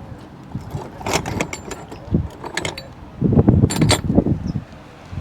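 Small hard parts clinking and knocking as they are handled and sorted through, in two short bouts: about a second in, and again from about three to four seconds in.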